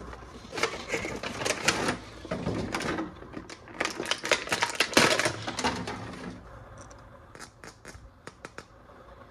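Hands handling plastic toy parts and packaging: dense runs of clicking and rattling in two bursts, then a few scattered clicks near the end.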